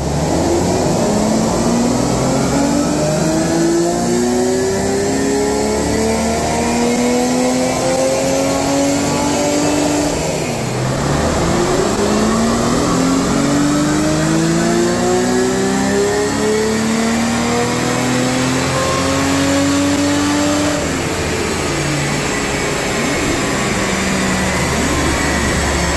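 Jaguar XJC's 5.3-litre V12, on a new fuel injection and ignition system with a new exhaust, at full throttle on a rolling-road dyno. Its pitch climbs steadily through a power run, drops briefly about ten seconds in, then climbs again before the throttle comes off about five seconds before the end and the note falls.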